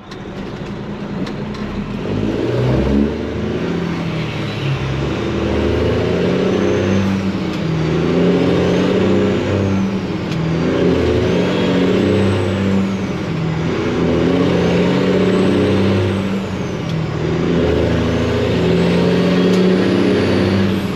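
Freightliner truck's Detroit diesel engine pulling away at light throttle, climbing in pitch and dropping back with each upshift as it works up through the gears. A turbo whistle rises and falls with each pull.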